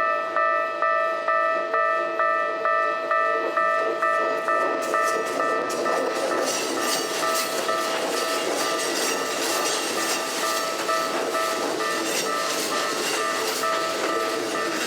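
Japanese level-crossing warning bell ringing steadily at about two strokes a second. From about six seconds in, a Keikyu Main Line train passes over the crossing under the bell, its wheels clicking over the rail joints.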